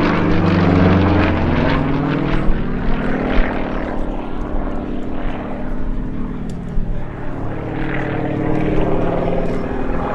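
Sukhoi Su-26MX aerobatic plane in flight, its nine-cylinder Vedeneyev M-14P radial engine and propeller sliding in pitch as it manoeuvres. It is loudest in the first couple of seconds, fades around the middle and swells again near the end.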